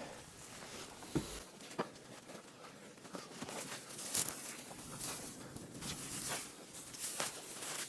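Hay net being pulled over a bale of hay by hand: light rustling and crinkling of netting and hay, with a few short soft knocks.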